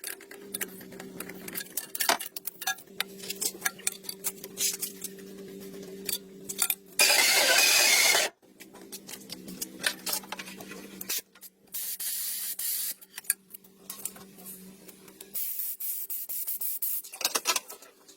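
Small metal clinks and taps, as of tools being handled, over a steady low hum, with a loud hissing spray lasting about a second about seven seconds in and shorter, fainter hisses later on.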